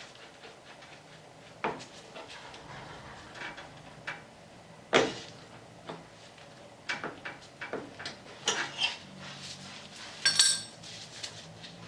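Metal hand tools and brake caliper parts clinking and knocking on a workbench in irregular single knocks, with a brief metallic ring near the end.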